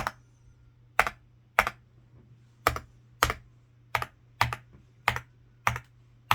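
Stabilized keys on a Zuoya GMK87 mechanical keyboard with Outemu Cream Pink linear switches being pressed one at a time. There are about ten separate keystrokes, each a sharp clack, often followed closely by a second, softer click as the key returns.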